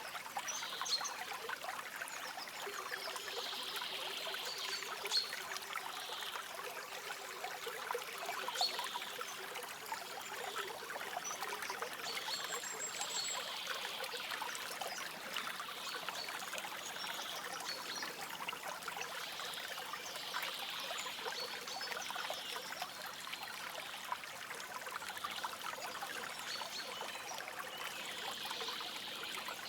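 Stream water trickling and burbling steadily over stones, with occasional faint high bird chirps.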